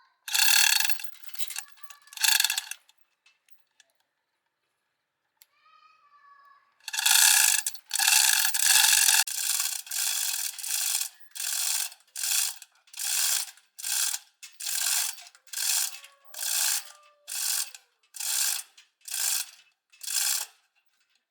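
Rhythmic rasping strokes of a hand tool worked back and forth, like scraping, filing or brushing. Two strokes come near the start, then a steady run of about one stroke a second that grows shorter toward the end.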